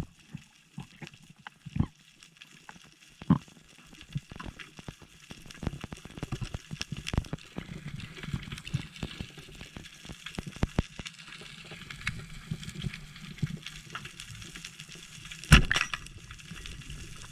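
Underwater sound: scattered clicks and crackles over a low hiss, with one louder sharp knock about fifteen seconds in.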